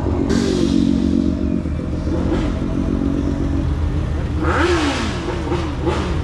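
Engine running steadily, then revved in several quick blips from about four and a half seconds in, its pitch rising and falling with each.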